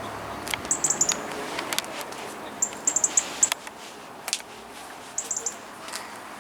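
Bird chirping in quick runs of three to five short, high notes, several times over, with scattered sharp clicks among them.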